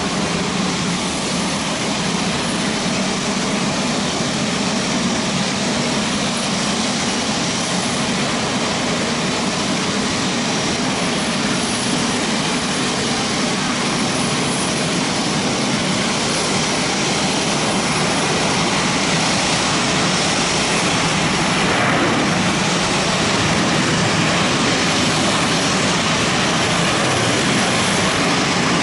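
Boeing 737-8 airliner on final approach, its CFM LEAP-1B turbofan engines making a steady jet rush that grows slightly louder in the second half.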